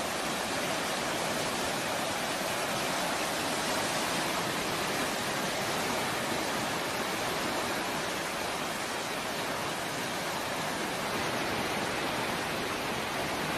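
Swollen, fast-flowing floodwater of a river rushing steadily, an even wash of noise with no breaks.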